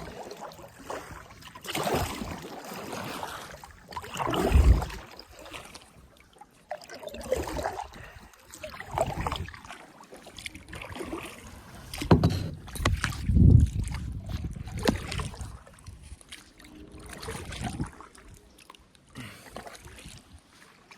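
Kayak paddle strokes in the water: irregular splashing swells every couple of seconds, with a few sharp knocks about twelve seconds in.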